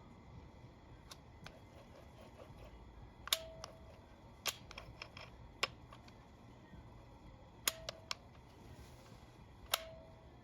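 Sharp metal clinks of tools and engine parts being handled during engine assembly: about ten clicks, five of them loud, and three of the loud ones ring on briefly.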